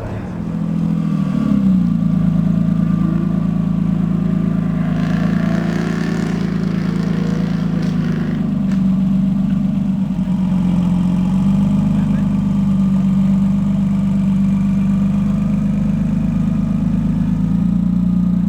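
Modified Porsche 996 Turbo's twin-turbo flat-six running steadily at low revs, getting louder about a second in.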